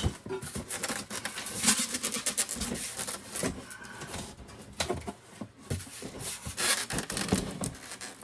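Packaging being handled: irregular rustling and scraping with scattered light knocks and clicks.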